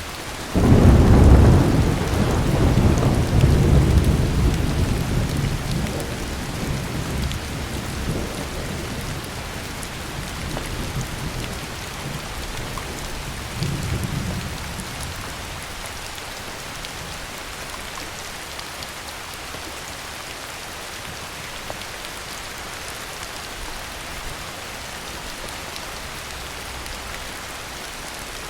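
Heavy rain falling steadily, with a loud thunderclap about half a second in that rumbles and slowly fades over the next several seconds, a smaller roll of thunder around the middle, then rain alone.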